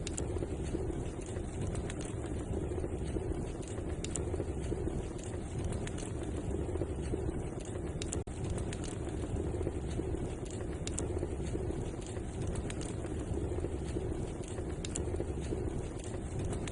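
Wood fire burning in a fireplace: a steady low rushing noise with occasional sharp crackles and pops every few seconds.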